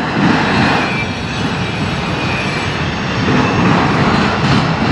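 Freight train rolling slowly past, a steady loud rumble of cars with wheels clunking over a rail diamond crossing.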